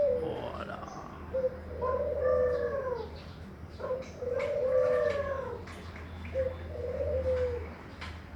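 Puter (Barbary dove) cooing: three drawn-out coos about two and a half seconds apart, each a little over a second long, with the tail of another coo at the start. A low steady hum runs underneath.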